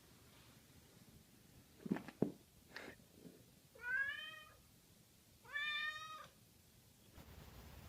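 A cat meowing twice, two drawn-out calls about a second and a half apart, after a few soft taps.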